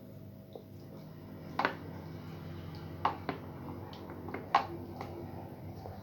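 Close-up eating sounds: chewing with a few sharp clicks and smacks, about four in six seconds, over a low steady hum.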